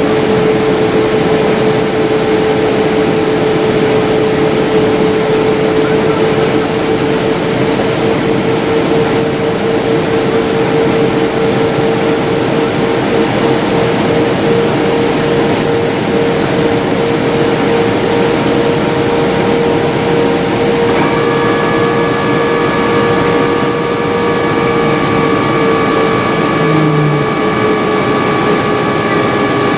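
Jet airliner cabin noise in flight: a steady roar of engines and airflow with a humming tone that drifts up slightly, then sinks near the end. About two-thirds of the way through, several higher steady tones join in.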